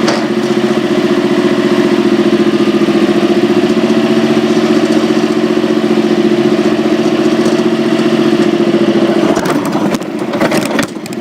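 Small tractor engine running at a steady idle. About ten seconds in there is a burst of knocks and rattling close to the microphone, and the engine sound dips and goes muffled for a moment.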